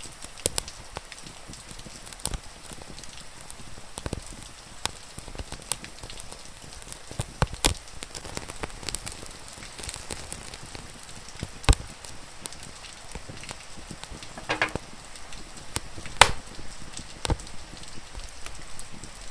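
Wood fire crackling, with sharp pops at irregular intervals and a brief rapid sputter of crackles about fourteen seconds in, over a steady hiss of rain.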